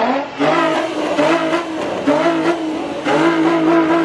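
Car engine revving hard during a burnout, held at high revs with a few brief dips.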